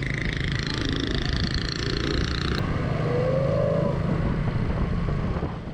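Motorcycle engine running steadily while riding, with road and traffic noise around it. A brief tone that rises slightly comes in about three seconds in.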